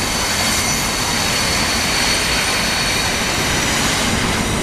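Two HXD1D electric locomotives and a DF4 diesel locomotive running together: a loud, steady noise with several thin, steady high-pitched whining tones over it.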